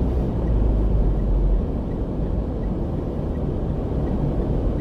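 Car road noise heard from inside the moving car: a steady low rumble of engine and tyres, heavier for the first second and a half, then easing a little.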